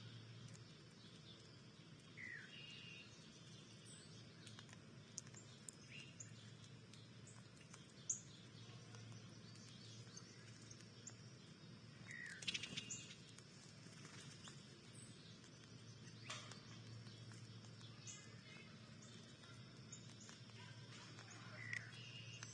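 Faint outdoor ambience with a steady low hum and occasional songbird chirps: a few short, downward-sliding calls spread out, with scattered high ticks in between.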